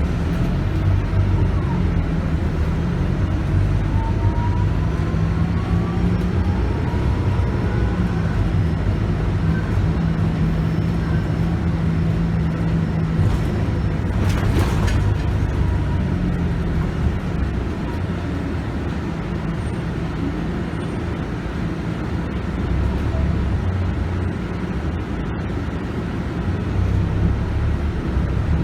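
Scania K280UB bus's 9.3-litre five-cylinder diesel engine and ZF Ecomat six-speed automatic gearbox heard from inside the bus while it drives, with road noise. A faint rising gearbox whine comes in during the first several seconds.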